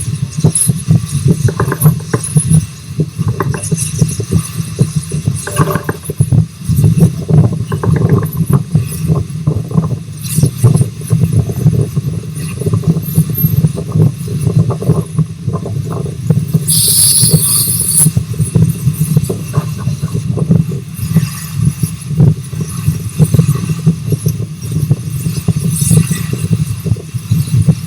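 Rx-class steam locomotive Rx207 and its carriages running along the track: a steady low rumble with dense irregular knocking and rattling throughout. About seventeen seconds in there is a brief, loud hiss lasting about a second.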